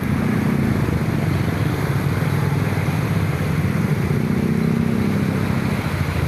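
Motor vehicle engine running under a steady low rumble. Its hum comes up near the start and again from about four seconds in.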